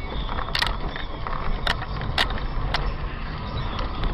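A car driving, heard from inside: a steady low road and engine rumble, with a few sharp clicks in the first three seconds.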